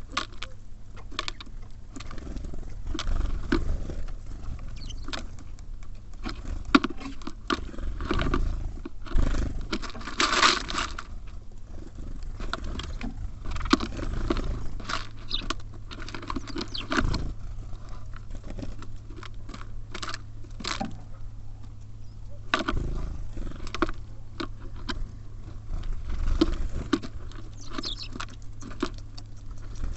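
Small birds at a wooden feeder pecking and scratching at seed: many irregular sharp taps and scrapes, with a louder flurry about ten seconds in, over a low rumble and a steady low hum.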